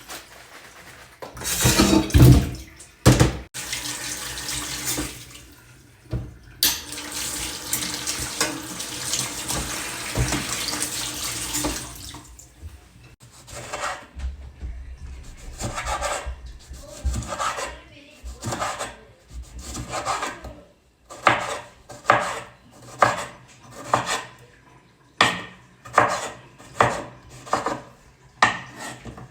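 Kitchen tap running into a sink for about twelve seconds, then short, evenly spaced knocks of a knife chopping on a wooden board, about one a second.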